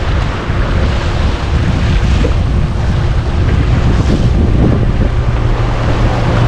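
Wind buffeting the microphone while water rushes and splashes along the hull of a small sailboat under sail. A low steady hum joins in about two-thirds of the way through.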